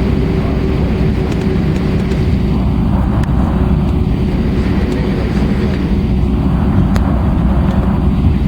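Airbus A320-232 with IAE V2500 engines, running with a steady low rumble and a steady hum, holding level without spooling up.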